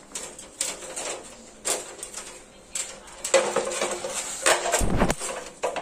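Irregular knocks and clattering, like hard objects being handled and set down, with a busier stretch in the second half and a heavier thump about five seconds in.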